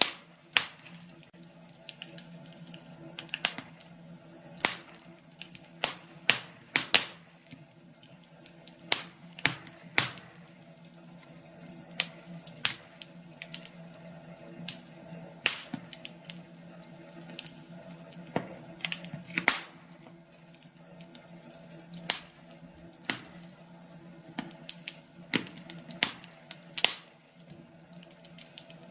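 Wood fire in a fireplace crackling: irregular sharp pops and snaps of varying loudness over a low, steady hum.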